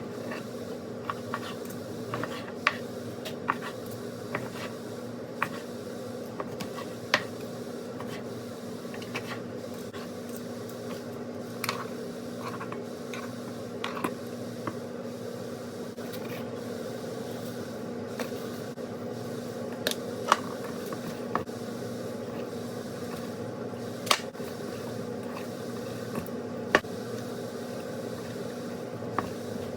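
Kitchen sounds: a steady hum with scattered light clicks and knocks, like utensils and dishes being handled during cooking.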